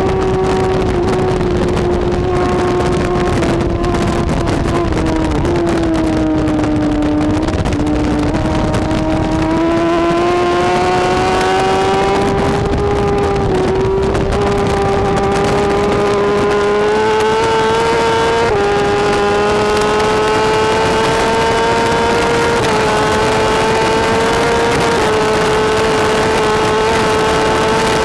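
BMW S1000RR inline-four superbike engine held at high revs, loud and steady throughout. Its pitch sags for several seconds, then climbs back gradually, with a few small steps along the way.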